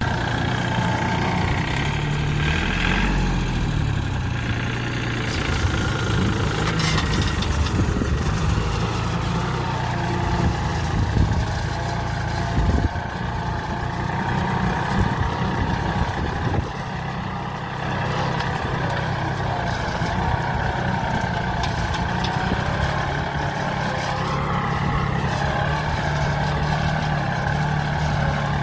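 40 hp Yanmar tractor's diesel engine running steadily, its pitch wavering slightly now and then.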